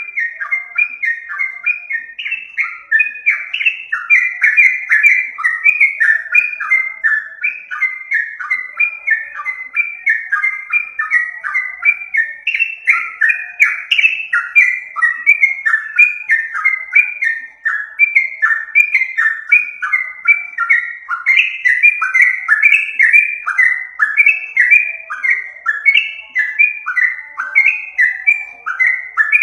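Yellow-vented bulbul (trucukan) calling nonstop in a lure recording for bird trapping: a loud, unbroken chatter of short, fluty falling notes, several a second.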